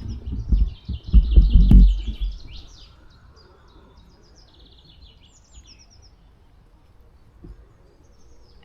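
Small birds chirping and trilling, with a loud low rumble for the first two and a half seconds that then dies away.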